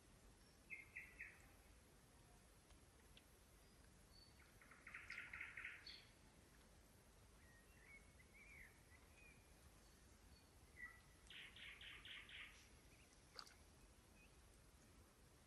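Faint birdsong: three short, rapid trills at intervals, with a few scattered chirps between them.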